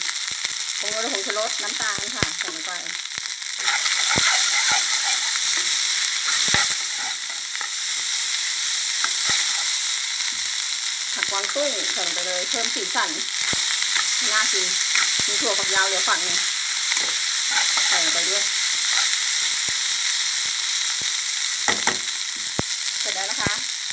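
Fried rice stir-frying in a hot wok: a steady sizzle, with the spatula scraping and clicking against the pan as the rice is tossed. The sizzle gets louder about four seconds in.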